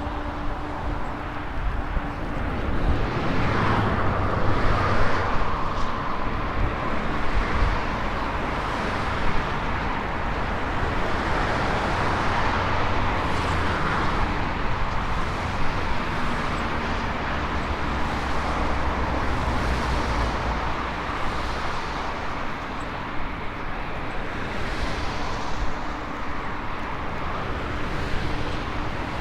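Riding noise from a Maxtron Mule folding e-bike: wind buffeting the microphone and tyres rolling over the road, with a faint steady hum and the odd small knock.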